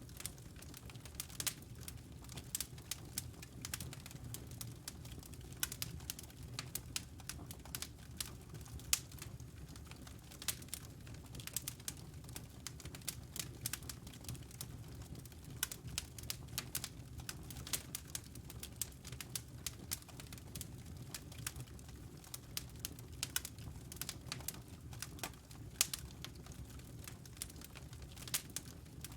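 Wood fire burning in a fireplace: a steady low rumble of flame with frequent small, sharp crackles and pops at irregular intervals.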